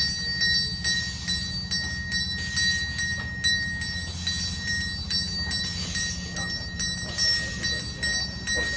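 A 1/8-scale live steam locomotive running, with an uneven rhythmic clatter over a low rumble and a steady high-pitched whine.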